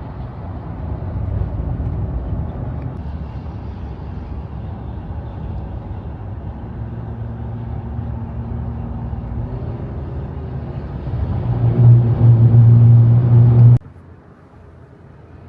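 A motor vehicle running: steady rumble with a low hum that grows much louder for the last few seconds, then cuts off suddenly near the end.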